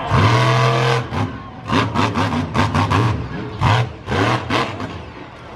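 Monster truck engine running loudly for about a second, then revved in a string of short, uneven throttle bursts, each rising in pitch.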